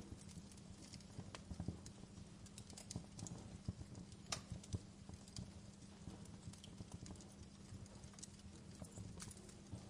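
Wood fire crackling softly: irregular sharp pops and snaps, one of the sharpest about four seconds in, over a low steady rumble.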